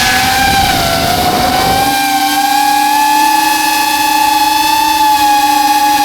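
Deepspace Seeker 35 XL FPV quadcopter's Aether 2005 brushless motors whining in flight. The pitch wavers over rushing wind noise for about two seconds, then holds steady.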